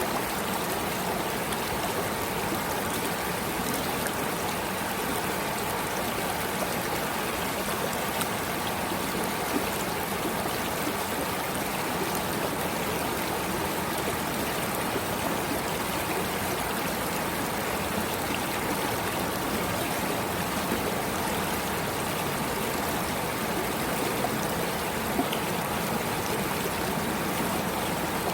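Running water flowing and trickling steadily, like a stream, as an even rushing noise that does not change.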